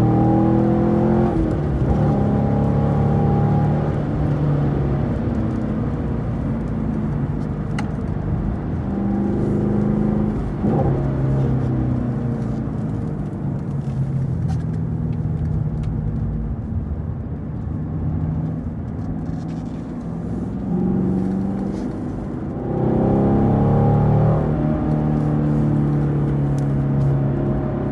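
Chevrolet Camaro SS 1LE's 6.2-litre V8 running hard on track, its pitch climbing steeply under acceleration twice, about ten seconds in and again near the end, and falling away between as the car slows for corners.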